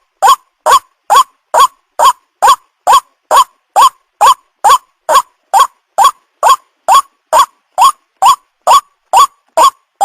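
White-breasted waterhen (ruak-ruak) call: a harsh note repeated about twice a second in a steady, unbroken series, each note sliding upward in pitch. It is the lure call used to draw in young waterhens.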